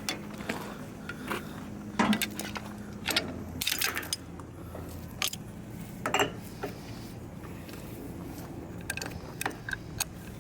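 Hand tools clinking and knocking against the metal of a hydraulic boom cylinder while working at a stuck part, a series of irregular sharp metallic clicks, over a steady low hum.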